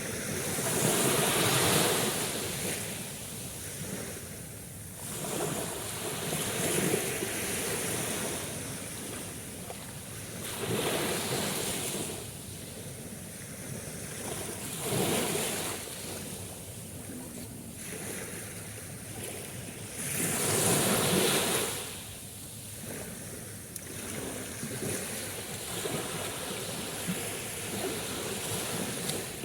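Sea waves breaking and washing on the shore, surging every few seconds with a softer wash between them.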